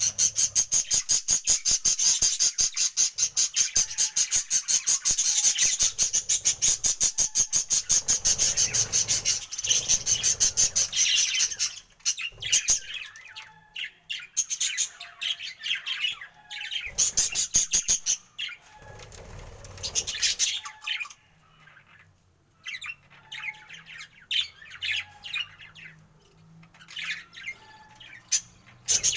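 Budgerigars chattering: a dense, fast stream of high chirps and squawks for the first twelve seconds or so, then breaking into shorter bursts with quieter gaps between them.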